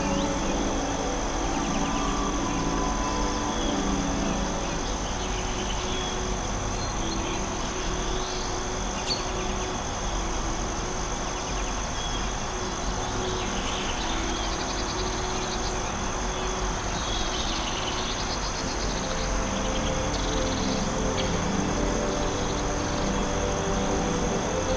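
Forest ambience: a steady high insect drone, like crickets, with scattered short bird chirps and trills over a soft background hiss. Soft sustained ambient music tones fade out mid-way and come back near the end.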